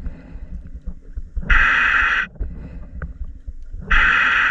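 Scuba regulator breathing: hissing bursts of about a second, repeating every two to three seconds, over a low rumble.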